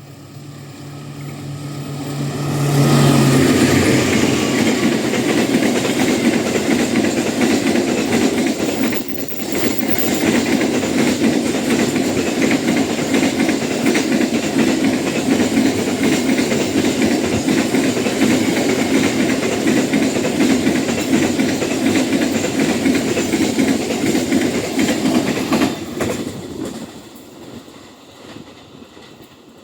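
A train passing through a station at speed: the noise builds over about three seconds, stays loud as the cars roll by for over twenty seconds, then dies away near the end.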